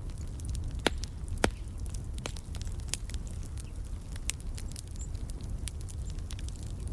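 Wood fire crackling, with frequent small snaps over a steady low rumble of the flames; two louder pops come about a second in, half a second apart.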